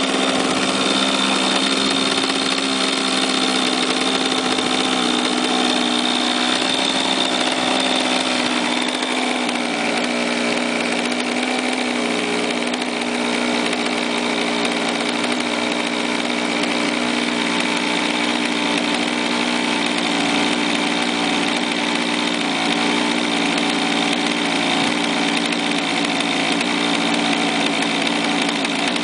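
Model plane's O.S. rotary engine running steadily, its pitch stepping slightly lower about nine seconds in.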